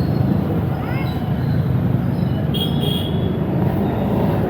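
An engine running steadily, a low even rumble, with a short rising chirp about a second in.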